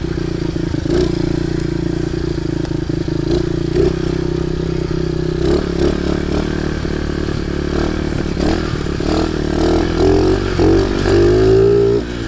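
Baja pit bike engine running as the bike is ridden, with the pitch rising and falling with the throttle over the last few seconds.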